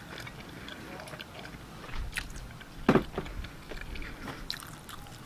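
A man chewing and biting a piece of grilled chicken close to the microphone: soft, irregular mouth clicks and smacks, with one louder knock about three seconds in.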